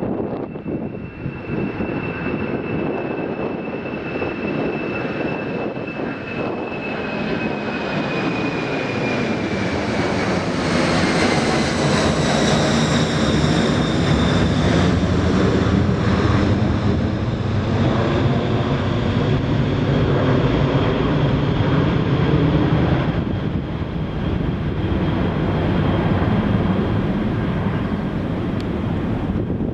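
Jet airliner engines going past: a high engine whine slides down in pitch as the aircraft passes, with the sound loudest in the middle and easing off near the end.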